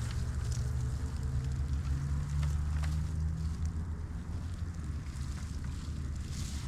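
Campfire burning, with a few sharp crackles and pops over a steady low rumble.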